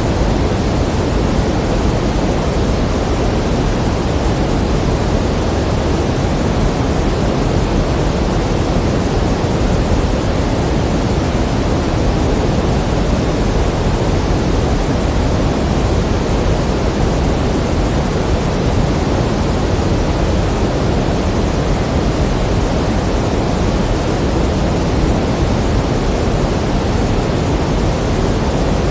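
Steady pink noise: an even, unchanging hiss, fuller in the low end than in the highs.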